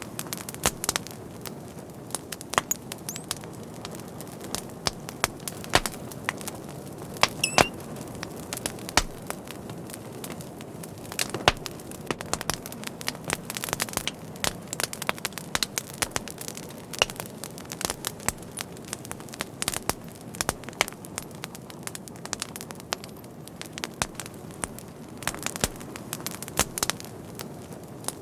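Fire crackling: irregular sharp pops and snaps over a steady low hiss of the flames.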